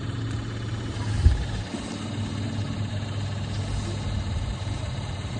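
An engine idling steadily with a low hum, and one sharp thump about a second in.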